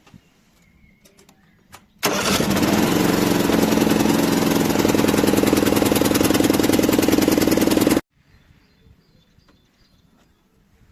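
Portable jump starter's built-in air compressor running: a loud, steady, rapid buzzing that switches on about two seconds in and cuts off abruptly about six seconds later.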